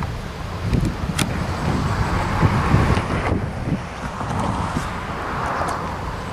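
A vehicle passing by, its running noise swelling and fading over a few seconds, with wind gusting on the microphone.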